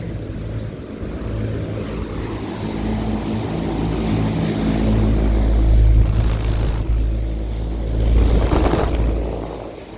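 Outdoor air-conditioner condenser unit running: a steady mechanical hum and fan drone, with gusts of wind rumbling on the microphone around the middle and again near the end.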